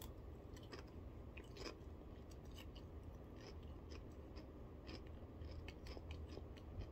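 Pringles Scorchin' potato chip being bitten and chewed, with faint, irregular crunches.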